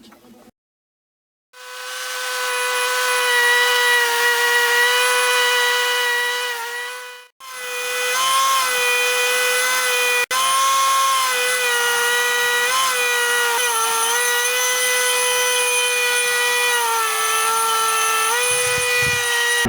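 Homemade belt grinder running with a steady high whine, starting up about a second and a half in and coming up to speed. It cuts out briefly once, and its pitch dips slightly several times.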